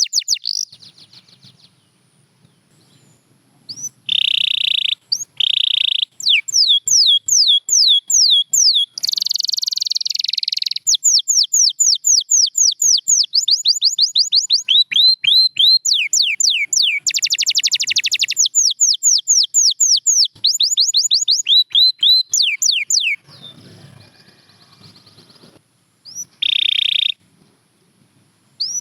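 Domestic canary singing a long song of fast trills made of repeated downward-sweeping notes, broken by harsher buzzing rolls. It pauses for a few seconds near the start and again about two-thirds of the way through.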